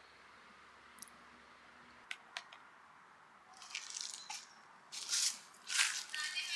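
A few faint clicks, then irregular bursts of rustling, scraping noise starting about three and a half seconds in and growing louder toward the end.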